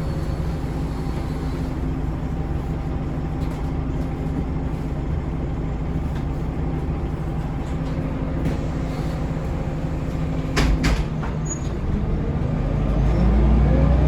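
Scania L94UB bus's DC9 diesel engine running steadily at low revs. About ten and a half seconds in come two short sharp bursts of noise. Then the engine note rises and grows louder as the bus accelerates.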